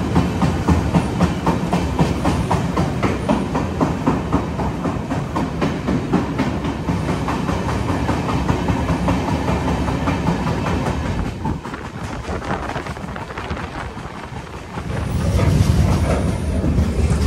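Mangalore Express passenger train running along the track, its wheels clattering over the rail joints in a quick, even rhythm. The noise drops for a few seconds about two-thirds of the way through, then swells louder again near the end.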